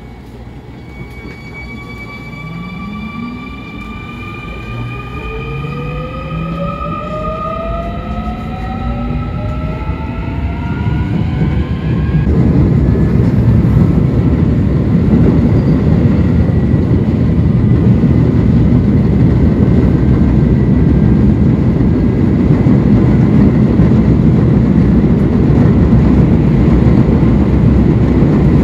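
Electric commuter train pulling away and accelerating: the traction motor whine rises in pitch in several tones over about ten seconds, then cuts off about twelve seconds in. After that comes a loud, steady rumble of wheels on rails as the train runs at speed.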